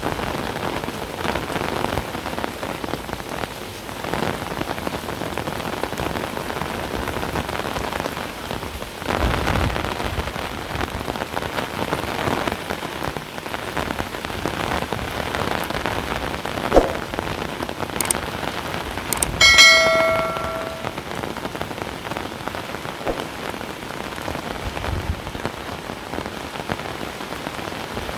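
Heavy rain falling steadily, its hiss swelling and easing. About twenty seconds in, a short ringing tone sounds for a second or so and fades.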